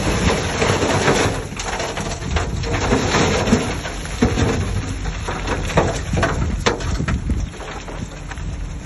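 Shantui DH17C3 bulldozer pushing soil: a low engine rumble under the crunch and crackle of moving earth and stones, with many sharp irregular knocks.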